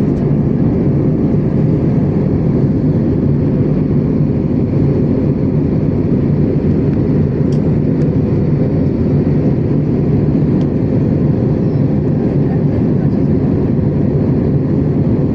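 Steady cabin noise of an Airbus A321neo in cruise: an even rush of air over the fuselage with a low drone and hum from its Pratt & Whitney geared turbofan engines.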